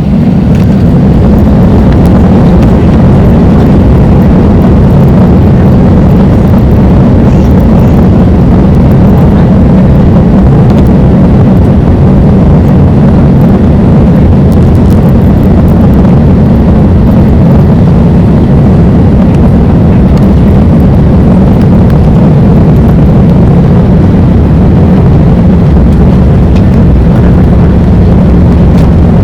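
Loud, steady roar of an Airbus A330's engines and airflow, heard from inside the cabin, deep and unchanging throughout.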